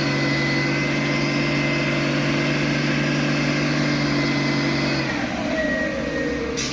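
Heavy truck diesel engine working under load at steady high revs, then easing off about five seconds in, the pitch falling as the revs drop.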